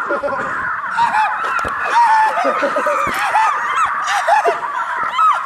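A flock of birds calling: many short honking calls overlapping one another, with no break.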